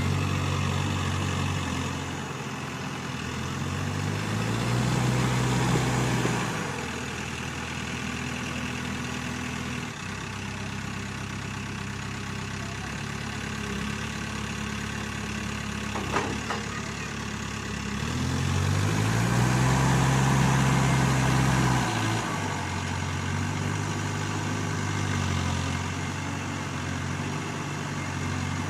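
Case backhoe loader's diesel engine running, revving up and back down twice, about four seconds in and again about eighteen seconds in, with lower steady running between. A sharp click about sixteen seconds in.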